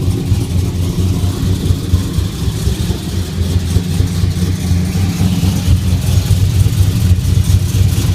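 Cammed 2009 Chevrolet Silverado's 5.3 L V8, fitted with a 228/234 camshaft and headers, idling cold with an uneven, choppy beat.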